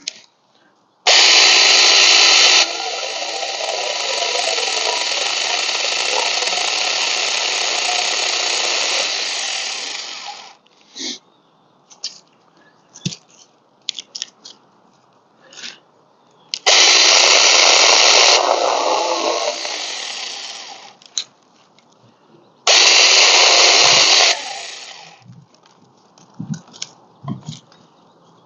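Cordless 21 V battery mini chainsaw running in three bursts as it cuts through fallen branches: a long run of about nine seconds, then two shorter ones. Between the runs come scattered clicks and knocks of wood being handled.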